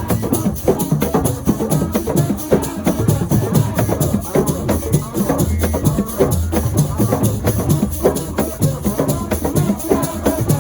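Assiko percussion music: dense drumming under a fast, even rattle of sharp strikes.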